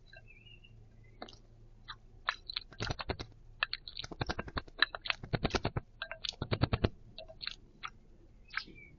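A bird bathing in a shallow bowl of water, flicking its wings in several quick bursts of rapid splashing, with a few faint chirps.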